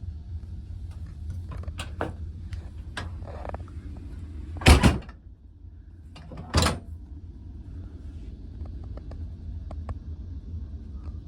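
Steady low hum of a ferry's engines underway, with two loud knocks a couple of seconds apart near the middle and scattered light clicks.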